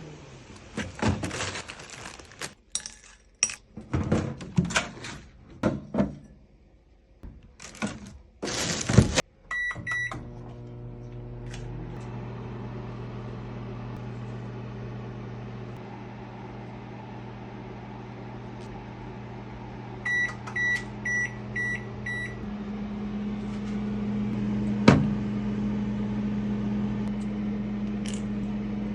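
Microwave oven in use: clicks and knocks of the door and dish being handled, a few quick keypad beeps, then the steady low hum of the oven running. A run of five beeps comes about twenty seconds in while the hum carries on, and there is a sharp click a few seconds later.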